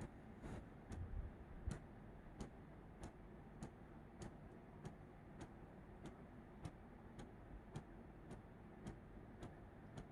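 Faint, even ticking, a little under two ticks a second, over near silence, with a few soft low thumps in the first couple of seconds.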